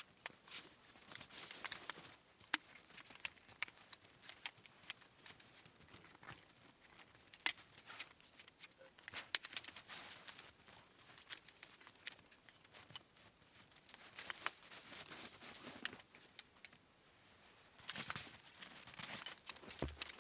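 Camping gear being handled: irregular rustling and crinkling, with scattered light clicks and knocks.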